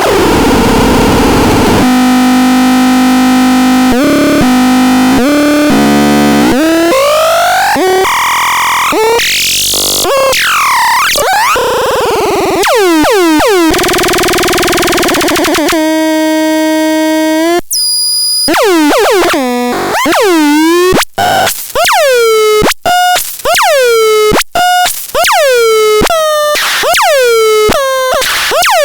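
Tukaton SL electronic sound generator: a hiss of noise at first, then buzzy held tones that jump from pitch to pitch, then sweeping glides up and down. From about two-thirds of the way in it fires a quick string of short falling zaps, one or two a second.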